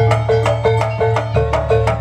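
Jaranan accompaniment music in gamelan style: pitched metal percussion struck in an even, repeating figure of about three notes a second over a low drum.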